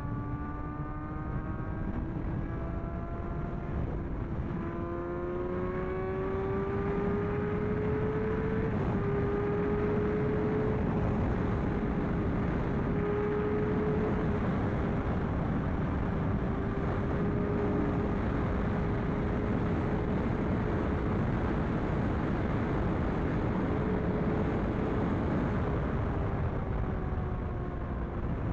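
Sportbike engine accelerating up through several gears, its pitch rising and dropping at each shift, then holding a steady high pitch at speed under a dense rush of wind noise.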